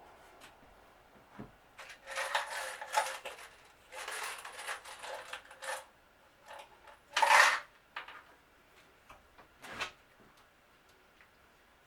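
Workpieces being handled on a bench: a series of short scraping, rustling strokes with scattered light knocks. The loudest is a brief scrape about seven seconds in.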